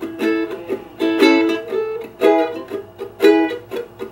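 Ukulele strummed in reggae style, with the chords moving between A and E: a strong, short strum about once a second with lighter strokes between, each chord cut off quickly by left-hand muting.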